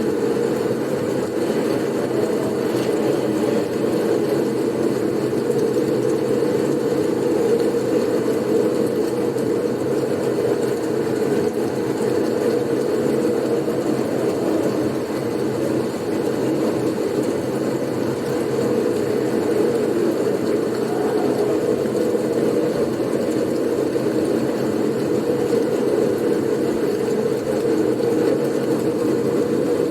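Blizzard wind noise: a steady, low, rushing sound that holds an even level, with no gusts or breaks.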